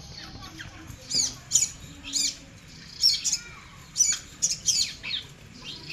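Nestling birds calling: a string of short, shrill chirps and squawks, about two a second, some bunched in quick pairs.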